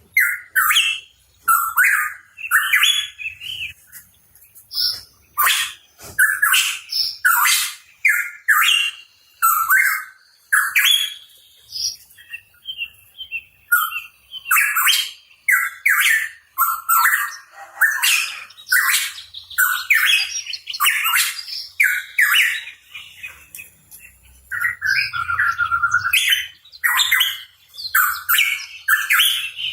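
Pitohui calling energetically: a fast, nearly unbroken run of short chirps and whistled notes, with only brief pauses between phrases.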